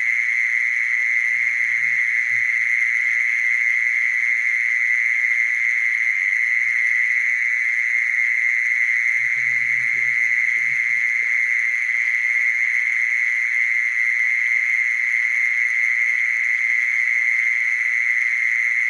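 Mole cricket singing: a continuous, even, high-pitched trill held without a break.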